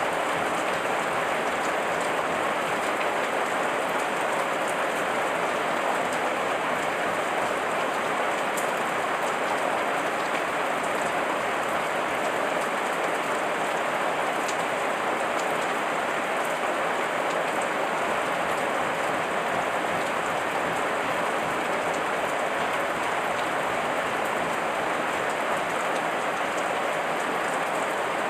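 Heavy rain falling steadily, an even dense hiss of drops on leaves and surfaces with scattered sharper drop ticks.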